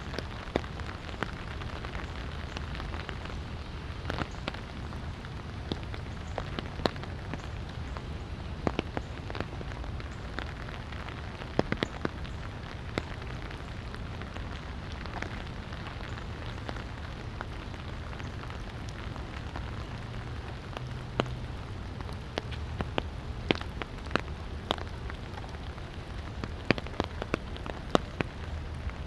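Light rain falling, with irregular sharp taps of individual drops over a steady hiss and a low steady rumble underneath.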